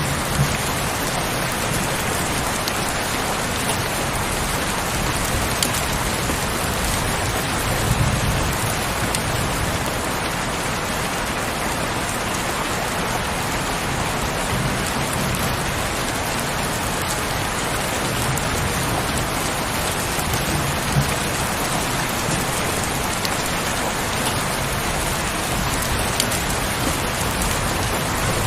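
Steady heavy rainfall, a dense even hiss of drops, with a few low rumbling swells underneath, the strongest about eight seconds in.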